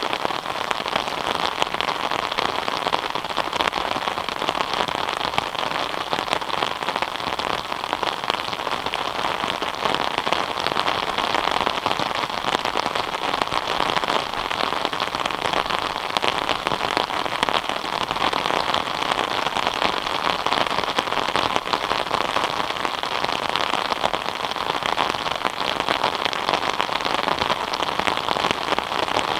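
Steady rain falling, a dense even patter of drops hitting surfaces, with fine crackling ticks from individual drops.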